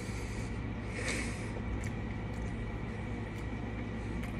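Close-miked chewing of a bite of a Double Quarter Pounder with Cheese, with a brief wet mouth noise about a second in and a few soft clicks of lips and tongue, over a steady low hum.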